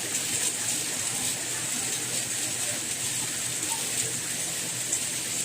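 Steady rainfall: an even, hissing wash of rain with a few faint drop ticks.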